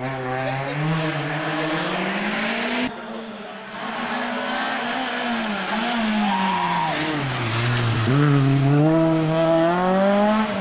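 Rally car engine revving hard as it approaches and enters a tarmac hairpin. The pitch climbs through the gears, breaks off abruptly near three seconds in, then drops sharply about eight seconds in as the car slows for the hairpin, and climbs again as it accelerates out.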